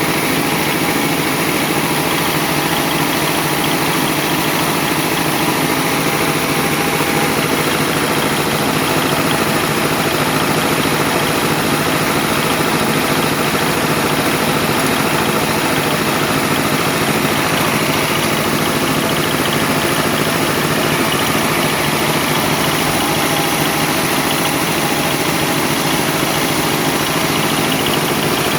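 An engine running steadily at an even speed throughout, with a fast, continuous pulsing.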